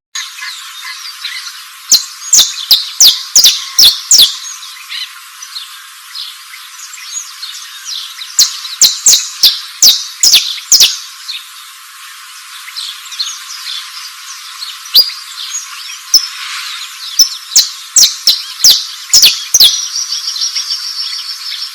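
A bird repeating loud, sharp chirps in quick runs of about six to eight notes, with pauses between the runs, over a steady insect-like hiss. A fast, buzzy trill comes near the end.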